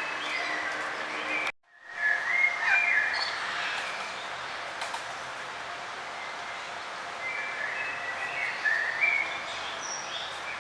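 Songbirds chirping and warbling in short, high phrases over a steady outdoor background, with the sound cutting out completely for a moment about a second and a half in.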